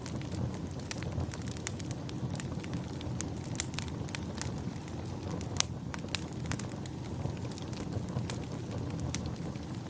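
Wood fire crackling: a steady low rumble of flame with frequent sharp irregular pops and snaps, a couple of them louder than the rest.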